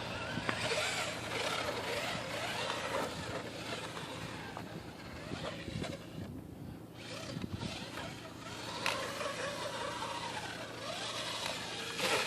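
Radio-controlled off-road truck being driven, its motor and gears whining in pitch that rises and falls with the throttle, with a few sharp clicks.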